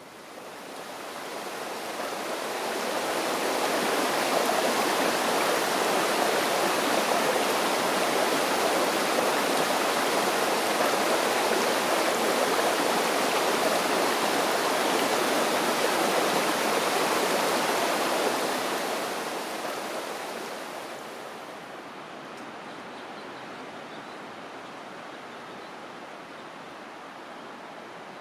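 Rushing water, an even steady rush that swells in over the first few seconds, then fades down to a softer rush about twenty seconds in.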